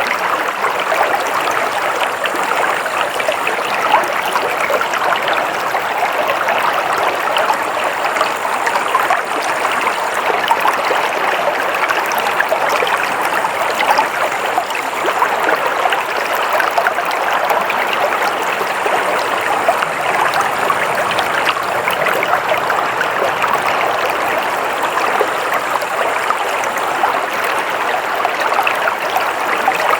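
Naturally flowing water running steadily, an even rushing sound that does not change or pause.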